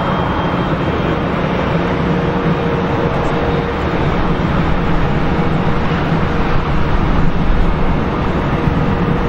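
Jet airliner engines running, a steady loud rumble with a faint steady hum over it.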